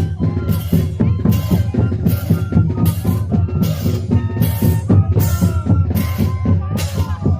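Moseñada music: moseño cane flutes playing held, sliding notes over a steady drum beat of big bass drum and crashing hits, a little under two beats a second.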